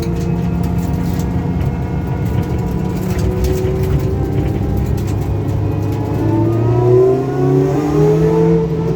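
Ford Fiesta ST150 rally car's engine running under way, fairly steady at first, then rising in pitch as it accelerates from about six seconds in.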